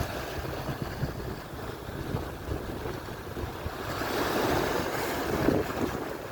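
Atlantic surf washing onto the shore, with wind buffeting the microphone. A wave's rush swells about four seconds in and peaks briefly before easing.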